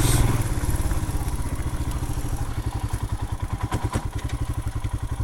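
Royal Enfield Himalayan's 411 cc single-cylinder engine running at low revs off the throttle, its firing pulses slow and distinct. There are a couple of sharp knocks about four seconds in.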